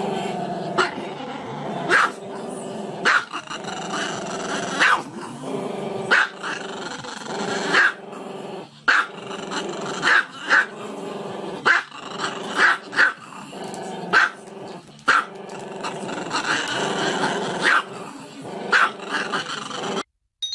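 Small long-haired dog growling continuously, broken by sharp barks roughly once a second; the sound cuts off suddenly near the end.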